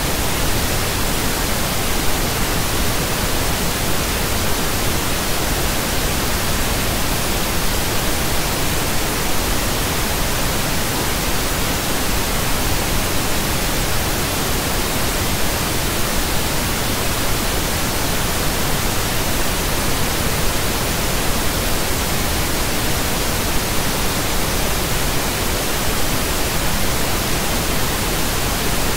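Pink noise: a steady, even hiss with no tones or events, unchanging throughout.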